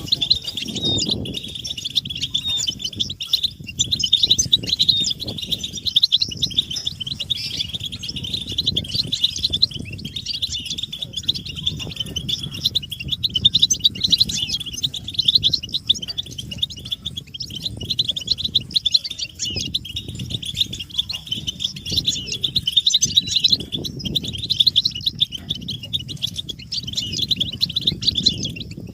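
A group of European goldfinches twittering and chattering without a break, a dense stream of fast, high chips, over a low background rumble. This is the excited group chatter used as a call-up to stimulate silent male goldfinches into song.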